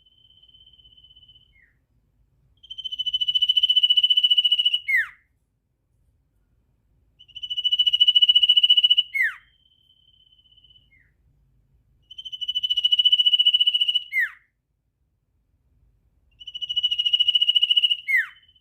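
Sirtu songbird singing 'ngetir' trills. A faint steady whistle opens the passage. Then come four phrases, each a rapid buzzy trill held on one high pitch for about two seconds and ending in a quick falling note.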